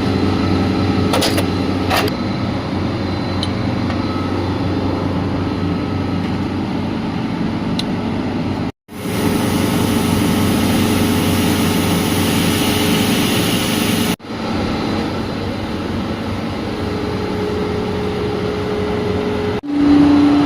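Steady mechanical hum with a few steady tones, typical of a refrigeration compressor unit running. The sound breaks off abruptly about nine and fourteen seconds in, with a hissier stretch between the two breaks.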